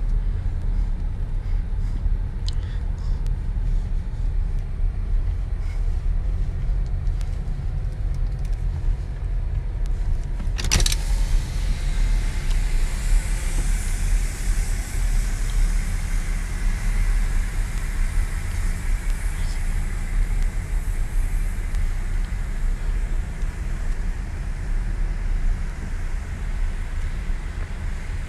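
Car in an automatic car wash tunnel, heard from inside the cabin: a steady low rumble, a sharp hit about eleven seconds in, then a steady hiss for the rest.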